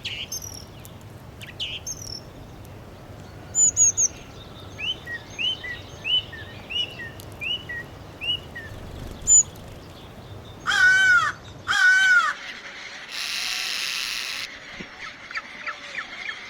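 Birds singing in a quick series of short chirps, then two loud, harsh cawing calls about a second apart, followed by a noisier harsh call lasting about a second and a half. A low background hiss drops out about halfway through.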